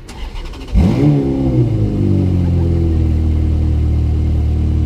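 Ferrari F430 Scuderia's V8 starting up: a brief crank, then it fires about a second in with a rev flare that drops and settles into a steady idle.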